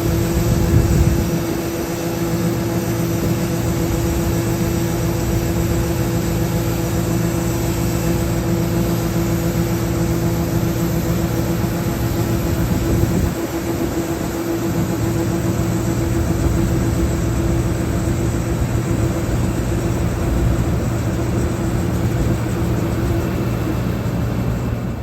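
Large farm-machinery diesel engine running at a steady speed, with a constant low hum.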